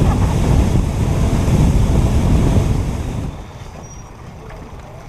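Wind buffeting the microphone over the rush of a fishing boat running across the water, cutting off suddenly about three seconds in to a much quieter low background.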